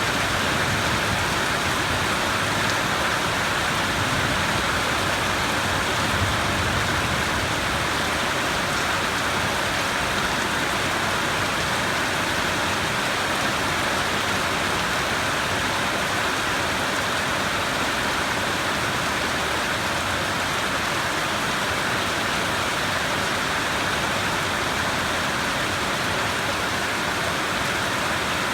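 Steady heavy rain falling, an even hiss without pause.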